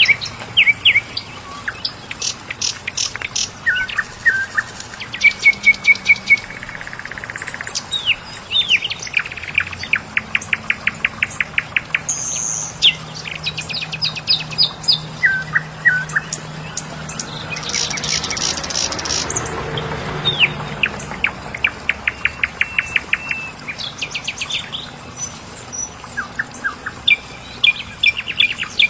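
Several songbirds singing together: fast trills of repeated notes, chirps and short whistles, overlapping one another. A soft rushing noise swells and fades in the middle.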